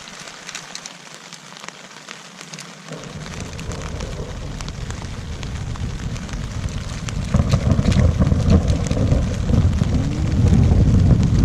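Rain falling and growing steadily heavier, with close drops pattering sharply, and a deep rumble building over the last few seconds as the thunderstorm arrives.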